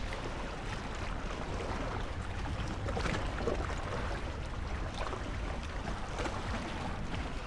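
Sea kayak being paddled on open water: a steady wash of water and wind, with a faint paddle splash now and then.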